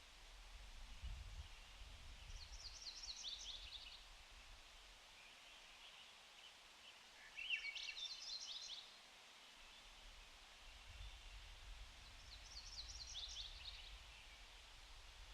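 A songbird singing a short, quick song of high, falling notes three times, about five seconds apart, over a faint low rumble.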